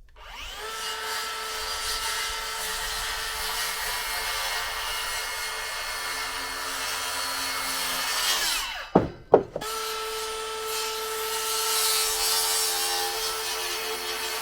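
Electric power tool running under load in wood: it spins up, runs steadily for about eight seconds, winds down, gives two sharp clicks, then starts again and keeps running.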